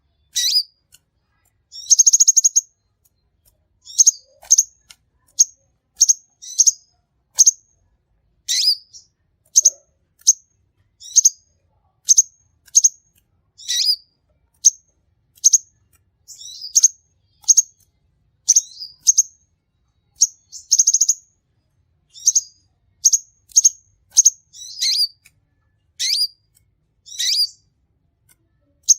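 A sunbird, the bird Indonesian bird-keepers call a kolibri, singing in a steady run of sharp, high chirps about a second apart. Twice, about 2 s in and again about 21 s in, it breaks into a short trill of rapid repeated notes.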